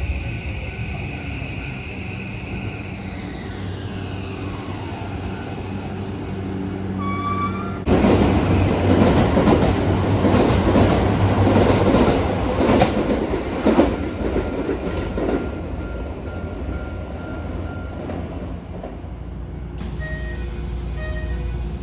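Keisei 3000 series commuter train heard from inside the car: the traction motors' whine falls steadily in pitch as the train slows on approach to a station. About eight seconds in, a much louder rushing rumble sets in, lasts several seconds, then eases.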